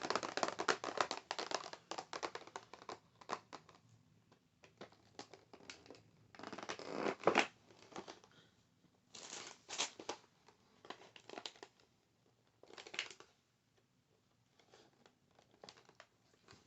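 Close-miked tapping, scratching and crinkling on small objects and their packaging. A dense run of quick taps and scratches comes first, then several separate crinkly bursts with quiet gaps between them.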